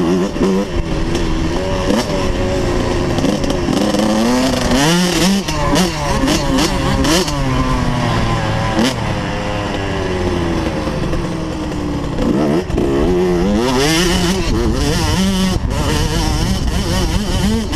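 Motocross dirt bike engine running hard, its pitch rising and falling again and again as it revs up and shifts through the gears.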